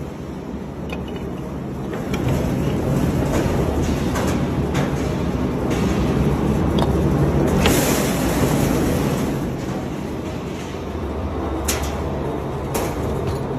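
Crusher machine running with a steady low rumble, getting louder about two seconds in, with occasional sharp knocks.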